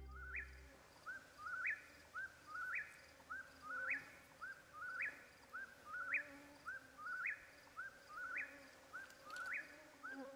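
A bird calling at night, repeating the same three-note call about once a second: two short rising notes followed by a sharp higher note.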